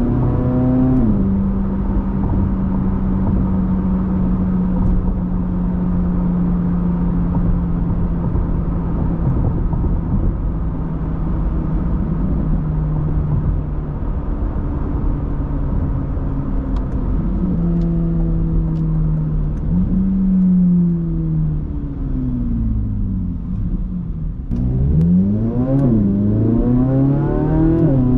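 C8 Corvette Z06's 5.5-litre flat-plane-crank V8 exhaust while driving, short-shifted at about 5–6k rpm because the engine and dual-clutch gearbox are still being broken in. It drops a gear's worth of pitch on an upshift about a second in, then cruises with a steady note that eases slowly lower, falls off as the car slows, and pulls hard over the last few seconds with two quick upshifts. Tyre and road noise run underneath.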